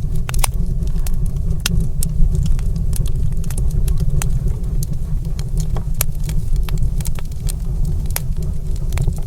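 Wood fire crackling in a fireplace: irregular sharp pops and snaps, several a second, over a loud steady low rumble.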